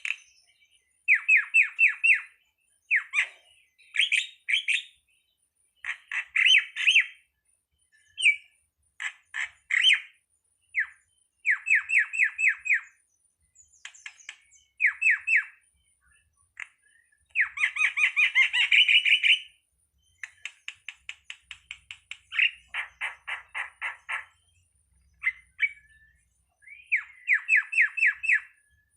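A starling (jalak) calling in repeated bursts of rapid, sharp chirps, each burst a second or two long with short pauses between. Near the middle come a longer dense run of chirps and a harsher call.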